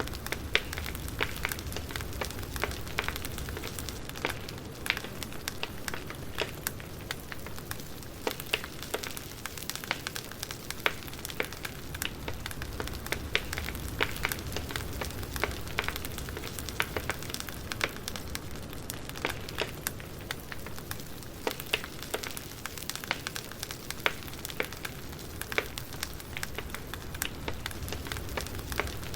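Wood fire crackling: irregular sharp pops and snaps over a steady low rumble and hiss.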